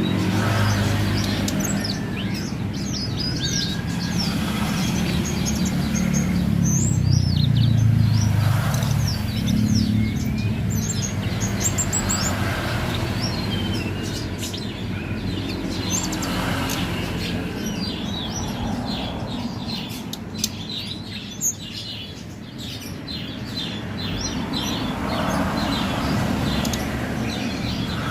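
Tledekan gunung songbird singing an unbroken run of rapid, high chirping phrases, with a steady low rumble underneath.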